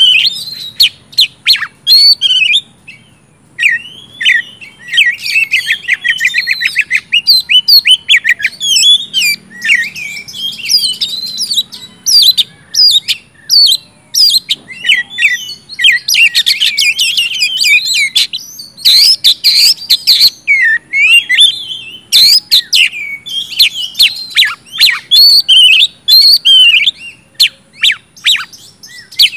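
Oriental magpie-robin (kacer) in loud, full song: a rapid, varied run of clear whistles, fast trills and harsh chattering notes, nearly without break, with a short lull about three seconds in.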